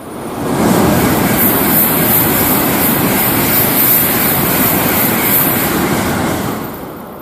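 Tokaido Shinkansen bullet train passing through a station at high speed without stopping: a loud rushing roar with a strong high hiss that swells in within the first second, holds for about six seconds, then fades away.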